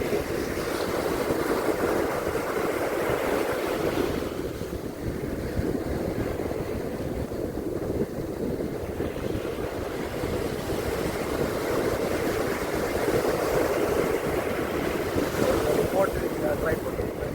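Ocean surf washing onto a beach, swelling and ebbing as waves come in, with wind buffeting the microphone.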